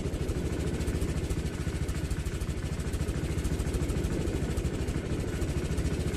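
An engine idling steadily, with a rapid, even pulsing.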